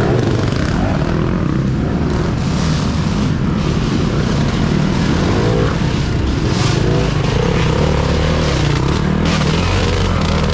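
Off-road racing dirt bikes running hard, their engine pitch rising and falling over and over as the riders work the throttle. The engines keep up a continuous, loud din.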